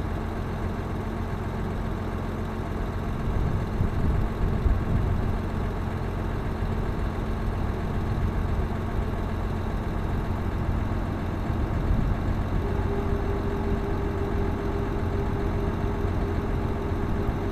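Claas Axion 820 tractor's six-cylinder diesel engine running steadily at low revs, swelling slightly a few seconds in; a higher steady tone joins about two-thirds of the way through.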